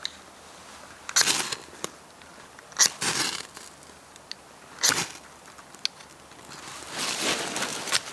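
Dry twigs and leaf litter crunching and crackling in four irregular louder bouts, with a few small sharp pops between them.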